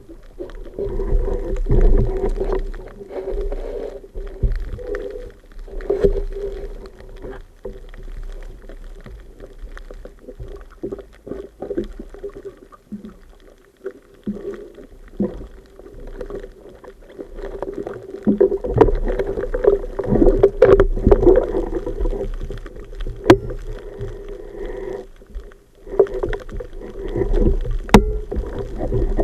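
A boat's engine running steadily, with scattered sharp knocks over it.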